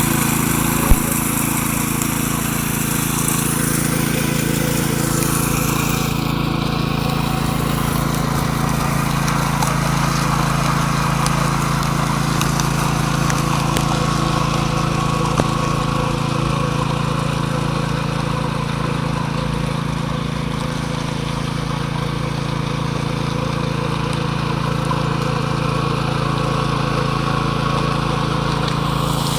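Concrete power trowel running steadily with an engine-like hum while finishing a floor dressed with colour hardener.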